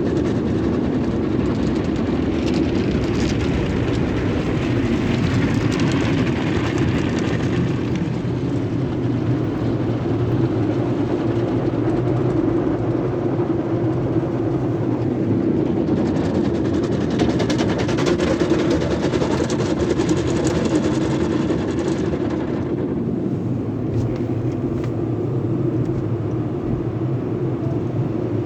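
Sonny's tunnel car wash equipment running: a steady, loud motor hum, joined twice by long stretches of spraying hiss.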